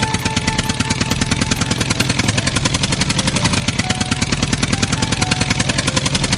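Small engine of a miniature DIY tractor water-pump rig running steadily, with a rapid even pulse of more than ten beats a second.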